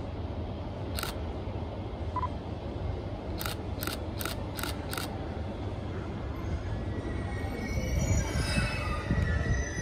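A JR East E653 series electric train pulling into the platform: from about halfway through, its wheels and brakes start squealing over a rising rumble, loudest near the end. Before that, one sharp click about a second in and then five quick sharp clicks in about a second and a half.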